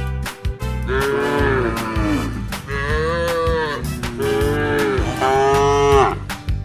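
Cattle mooing, about four long calls in a row, each swelling and then sliding down in pitch, over background music with a steady beat.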